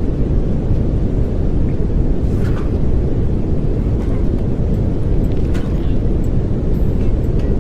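Steady pink noise: an even, deep rushing sound weighted toward the low end, with no change in level.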